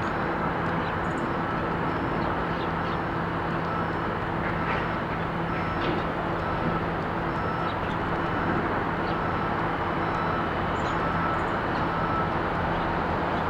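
Steady traffic noise from a nearby road, a constant rumble with a low hum, with faint short chirps of small birds scattered through it.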